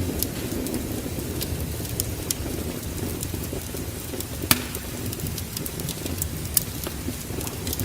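Wood fire crackling in a fireplace, with scattered sharp pops, the loudest about four and a half seconds in, over a steady low rumble.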